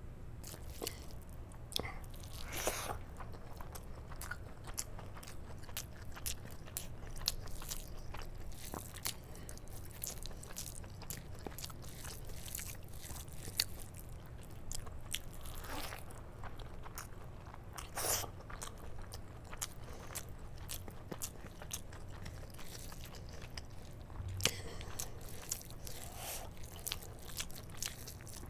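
Close-miked eating: wet chewing and mouth clicks of rice mixed with palak paneer, eaten by hand in big mouthfuls, with a few louder slurps or gulps standing out now and then.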